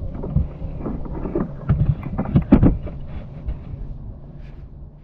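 Wind buffeting the microphone while paddling a kayak, with several sharp knocks of the paddle against the hull and water, the first half of the clip busiest. The sound fades out near the end.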